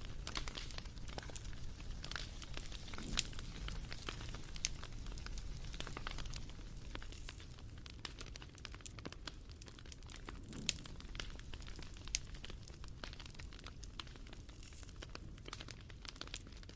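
Wood fire crackling: irregular snaps and pops over a low rumble, with a few louder pops standing out.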